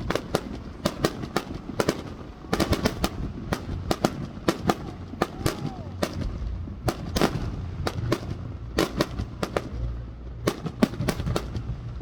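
Fireworks going off: a rapid, irregular string of sharp bangs and crackles, several a second, over a low rumble of deeper booms.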